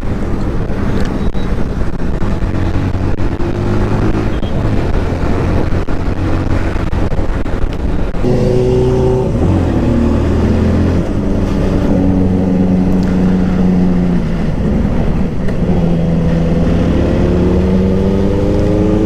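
Benelli motorcycle engine running under way, its pitch rising and falling with throttle and gear changes, then climbing steadily near the end as it accelerates.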